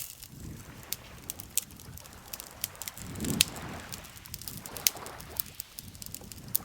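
Wood campfire crackling, with irregular sharp pops and snaps, the loudest about three and a half seconds in. Beneath it runs a soft low wash that swells in the middle, like lake water lapping.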